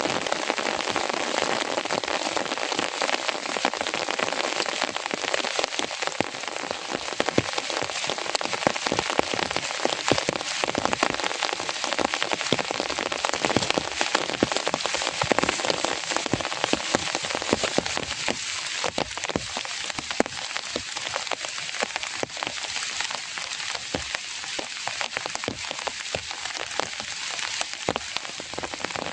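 Rain falling steadily, with many separate close raindrop hits on a surface near the microphone.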